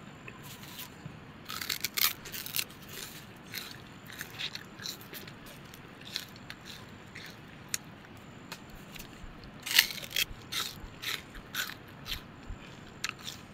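Crunchy snack being bitten and chewed: irregular crisp crunches, thickest about two seconds in and again near ten seconds.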